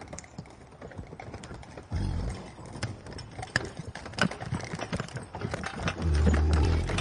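Horse hooves going clip-clop in a run of short, uneven clicks. Two louder low thuds come about two seconds in and again near the end.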